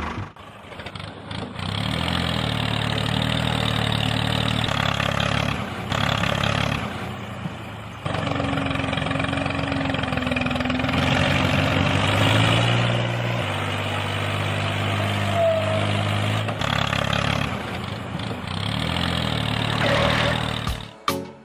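A motor-vehicle engine running, its pitch shifting up and down in steps every second or two, with a quieter dip partway through.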